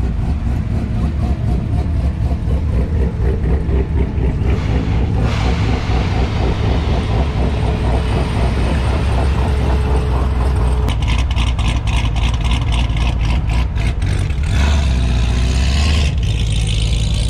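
V8 Corvettes rumbling as they roll slowly past at low speed. The engine note swells briefly with a rev about fourteen seconds in.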